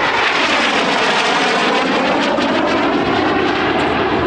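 Aircraft flying past low and loud, its engine noise sweeping down in pitch as it goes by.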